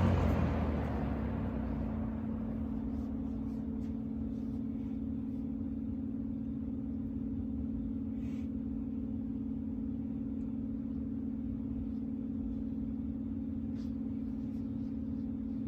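Superlectric 2067S box fan with a metal blade coasting down after being switched off from high speed. The rush of air fades away over the first couple of seconds, and a steady low hum carries on as the blade keeps turning.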